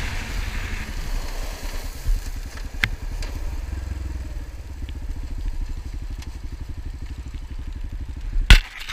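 An engine idling with an even, steady pulse, then a single sharp knock near the end.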